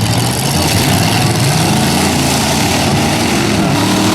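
Engines of straight-stock demolition derby trucks running together, a loud, steady din of several engines at once.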